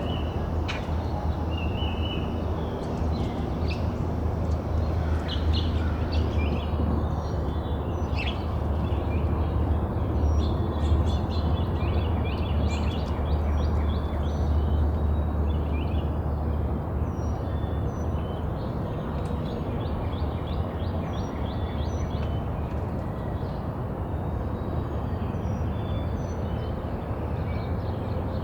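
Several birds chirping and calling, with a run of short, evenly repeated high notes through the second half, over a steady low rumble.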